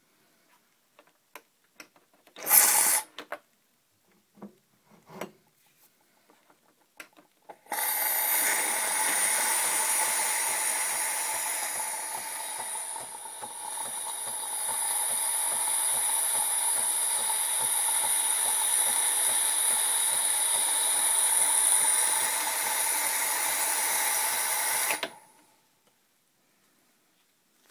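Jura-Capresso E8 automatic coffee machine running: after a short loud burst and a few clicks, a steady mechanical whir with a high hiss starts about eight seconds in, lasts some seventeen seconds with a brief dip partway, and stops.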